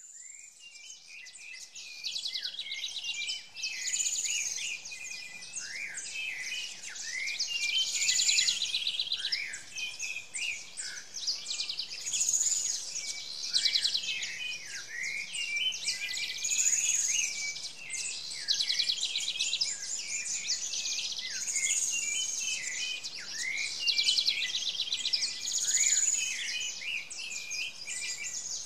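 Birds singing: busy phrases of chirps, trills and quick falling whistles, repeating every couple of seconds, fading in over the first two seconds.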